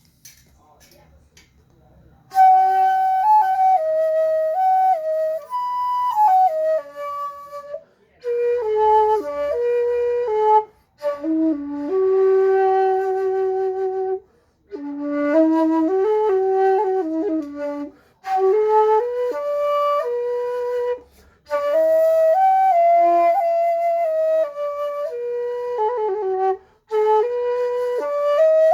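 Six-hole shakuhachi with a Tang-style blowing edge, played solo: a slow single-line melody that begins about two seconds in, in phrases of a few seconds broken by short breath pauses, with notes bending and sliding into one another.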